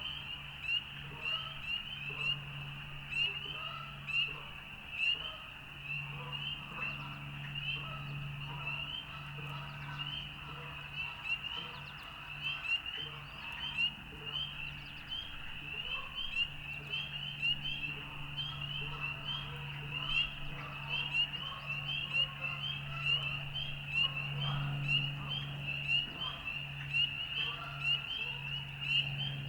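Frog chorus: many frogs calling at once, a dense run of short high calls repeated over and over, with louder single calls about once a second. A low steady hum runs underneath.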